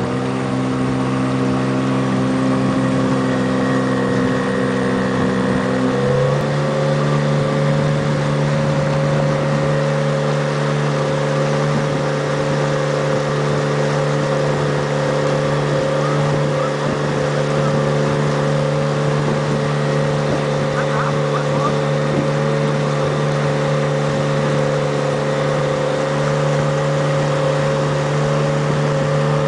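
Motorboat engine running steadily, picking up speed about six seconds in and then holding at the higher pitch.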